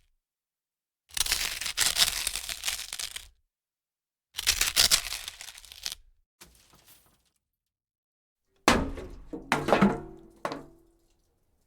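Impact sound effects: two loud bursts of rough noise, each a couple of seconds long, then three or four sharp hits about a second apart with a brief ringing tone.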